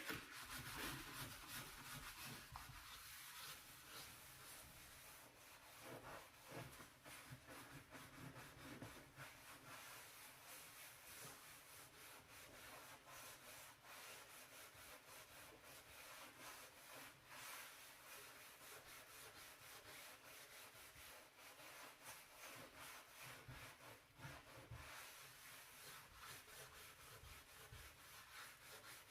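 A brush scrubbing a dirty stove surface in continuous, rapid, scratchy strokes.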